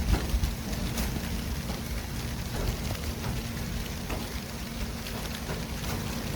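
City street traffic ambience: a steady low rumble and hiss of passing vehicles, with scattered light ticks.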